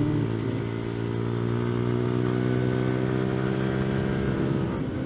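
CFMoto Papio minibike's small single-cylinder engine running under way, its pitch climbing slowly as the bike gathers speed, then dipping briefly near the end.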